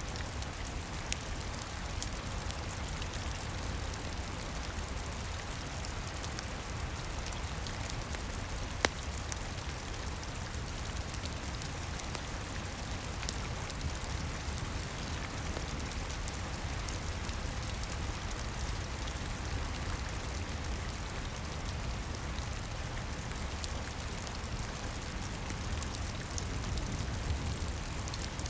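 Steady rain pattering, with a low rumble underneath and scattered sharp crackles from a wood fire, one louder pop about nine seconds in.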